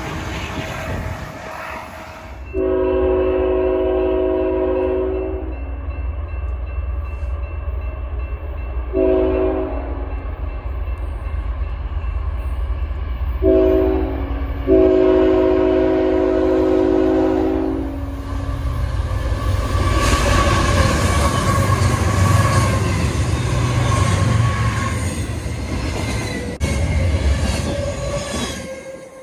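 Freight locomotive's multi-chime air horn sounding a long blast, a shorter one, then a short and a long: the grade-crossing horn sequence, over the rumble of the approaching train. About eighteen seconds in, the double-stack intermodal train arrives and passes close, with a loud rumble and wheels clattering over the rails.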